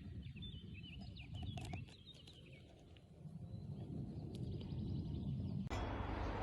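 Small birds chirping in short, quick notes over a low wind rumble. Near the end the sound cuts abruptly to a louder, steady rushing noise.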